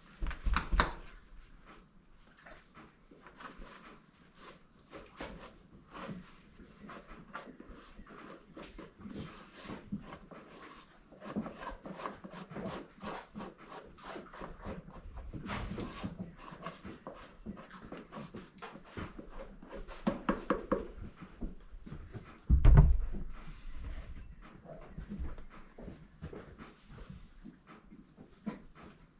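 Scattered knocks, rustles, clatter and footsteps of horse feed being prepared, with one loud thump about three-quarters of the way through. A steady high-pitched trill runs underneath.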